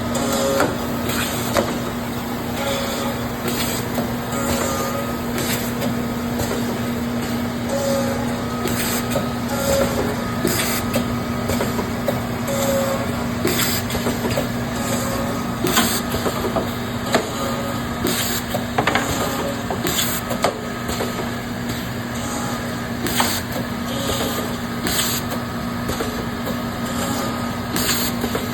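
Gannomat Index 130 Trend CNC bore and dowel machine running, with a steady motor hum, a short tone repeating about once a second, and frequent brief pneumatic air hisses and clicks at irregular intervals.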